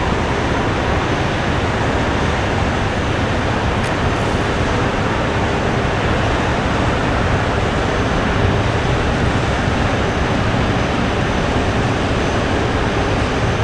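A passing train running along the riverside line, heard as a steady rumble and rushing noise.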